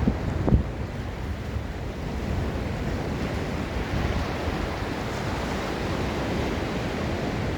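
Ocean surf washing steadily onto a sandy beach, with wind buffeting the microphone in low thumps about half a second in.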